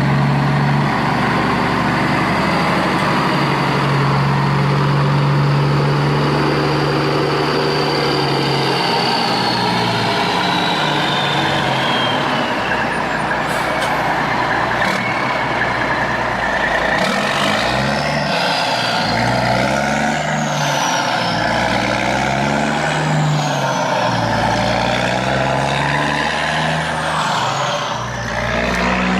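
Heavy truck engine running, its pitch rising and falling as it revs and slows.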